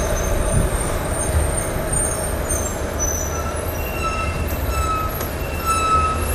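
Motorcycle and heavy lorries running in road traffic: a steady low engine rumble, with faint high-pitched squeals coming and going from about halfway through.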